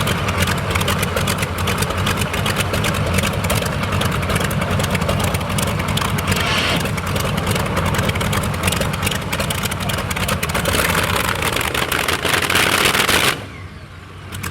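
Modified pulling tractor's engine running flat out under load with a dense, steady crackle from the exhaust, dropping away suddenly about a second before the end.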